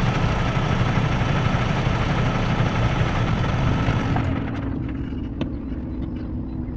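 Tractor-trailer's diesel engine running steadily with a low rumble; the higher road and air noise over it falls away about four seconds in, leaving the engine note and a faint click.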